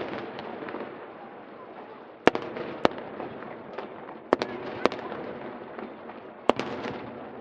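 Aerial fireworks shells bursting: about five sharp bangs at uneven intervals, each followed by a brief crackle.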